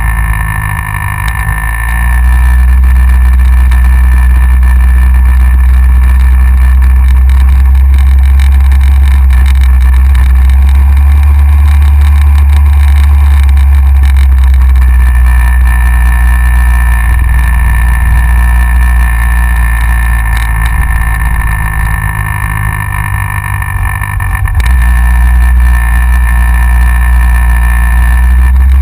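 Yamaha XJR motorcycle's inline-four engine running at road speed, heard through a front-mounted GoPro under heavy wind rumble on the microphone. The level eases off briefly twice, at the very start and again about two-thirds of the way through.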